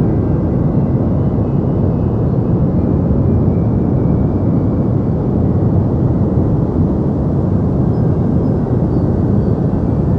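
Deep white noise for sleep: a steady, unchanging rush weighted toward the low end, with little treble.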